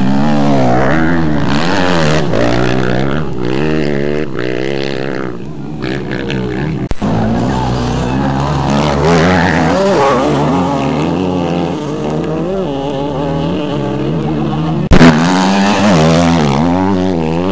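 Off-road rally motorcycle engine running hard, its pitch rising and falling over and over with the throttle. There is a sharp knock about seven seconds in and a short, loud blast about fifteen seconds in.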